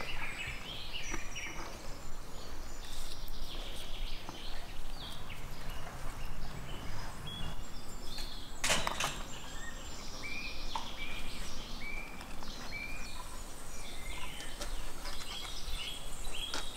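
Birds chirping with repeated short calls over steady background noise, the calls coming more regularly in the second half; a single sharp knock about nine seconds in.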